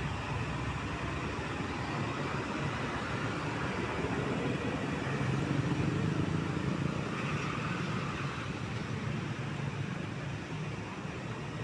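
Mitsubishi Fuso diesel trucks driving past with engine and road noise. The sound grows louder around the middle, then eases off.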